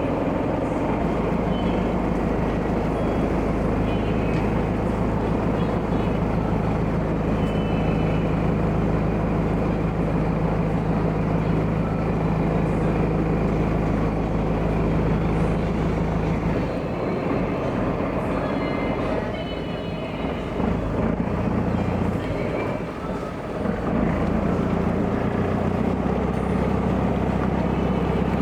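Small harbour ferry boat's engine running with a steady drone. From about two-thirds of the way through, the engine note drops and wavers for several seconds, then settles back to a steady run.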